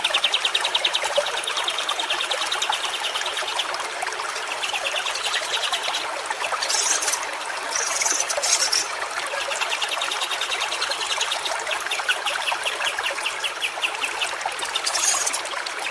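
Stream water trickling steadily. Over it, a fast, even pulsing trill comes and goes in several bouts, with a few short high chirps.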